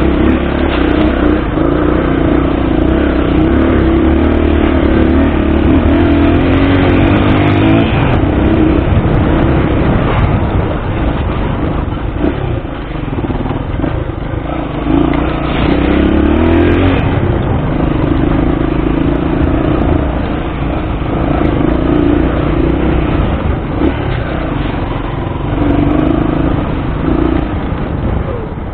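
Honda XR200's single-cylinder four-stroke engine running under load while riding off-road, revs rising and falling with the throttle, dropping about halfway through. The engine is running on a freshly repaired carburettor.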